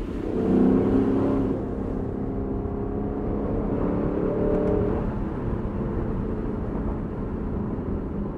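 Lexus LC500's naturally aspirated 5.0-litre V8 accelerating, swelling to its loudest about a second in, pulling steadily, then easing off after about five seconds, heard through the open top of the convertible with road and wind noise.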